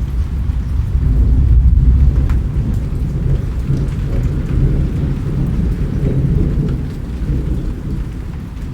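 Rain falling, with a low rolling rumble of thunder that is loudest about one to two seconds in and slowly eases off toward the end; faint scattered drop ticks sound over it.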